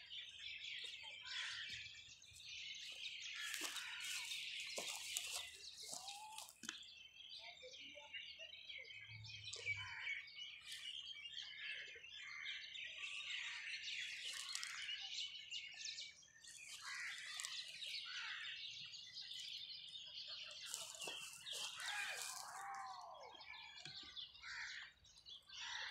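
Many birds chirping and calling at once: a busy chorus of short, high calls with some lower, falling calls among them.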